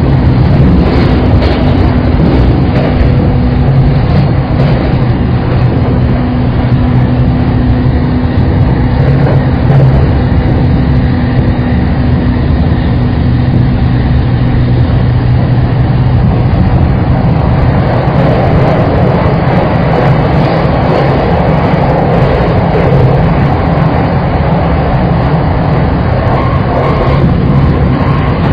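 Saikyo Line commuter rapid electric train running at speed, heard from inside the car: a steady rumble of wheels on rail with a low hum. The rushing grows a little louder from about two-thirds of the way through.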